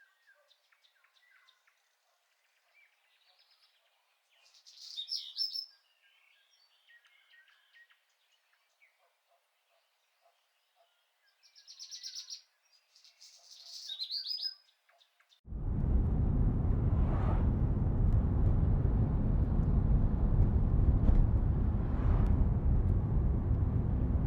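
A few short bird chirps over near silence, then about two-thirds of the way in a loud, steady rushing noise starts abruptly and carries on.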